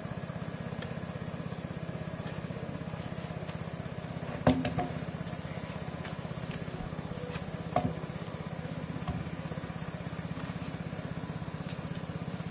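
A small engine running steadily with a fast, even throb, and two sharp knocks, one about four and a half seconds in and another near eight seconds.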